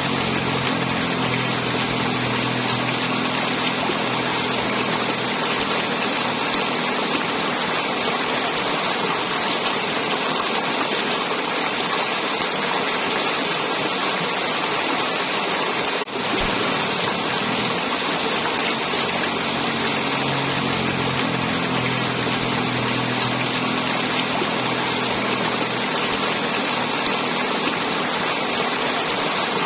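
River water flowing and gurgling, a steady rush without a break except a brief dip about halfway through.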